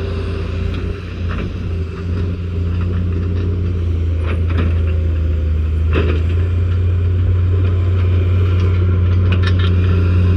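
A machine's engine running steadily under load, with scattered cracks and knocks of breaking material, the loudest about six seconds in.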